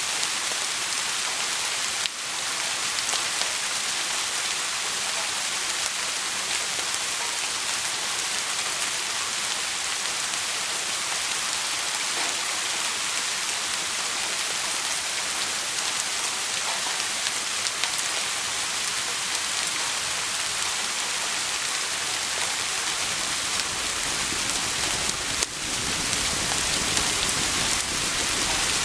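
Steady rain falling, an even hiss with no single drops standing out. A low rumble builds in over the last few seconds.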